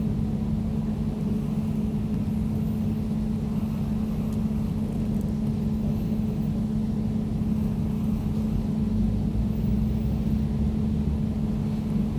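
Air conditioner running steadily: a constant low hum with a steady droning tone and a soft rush of air above it.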